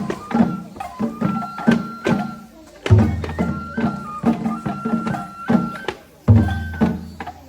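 Japanese festival hayashi music: a flute holds a stepped high melody over a steady beat of drum strokes, and a big deep drum is struck about three seconds in and again a little after six seconds, ringing on after each hit.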